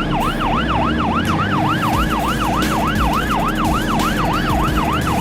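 Police siren in a fast yelp, its pitch sweeping up and down about three to four times a second over a low rumble.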